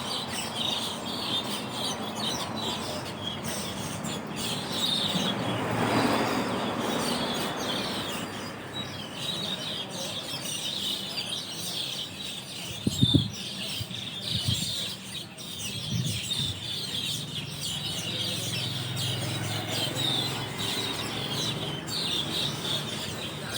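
A large flock of Asian glossy starlings chattering together from a roost tree: many short, overlapping, high chirps and whistles without a break. A broad rushing swell builds and fades about a quarter of the way in, and a short low thump about halfway through is the loudest sound.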